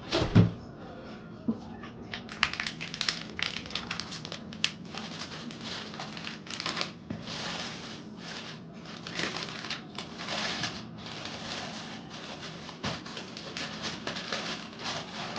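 Crinkling and rustling with many small clicks as food and its wrapping are handled, preceded by a single knock about half a second in.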